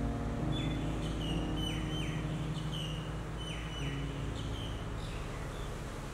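A bird calling over soft, sustained background music: about ten short high chirps, some sliding down in pitch, over a few seconds before they stop.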